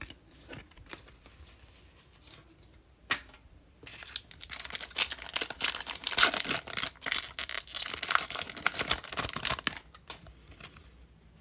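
A few light clicks, then a foil trading card pack wrapper being torn open and crinkled: a dense crackling run from about four seconds in to about ten seconds.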